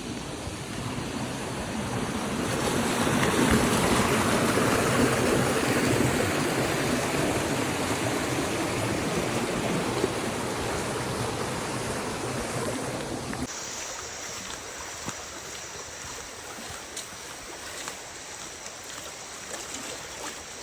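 Waterfall water rushing as a steady roar, swelling louder a few seconds in; partway through it cuts abruptly to a quieter, thinner rush of water with a few faint clicks.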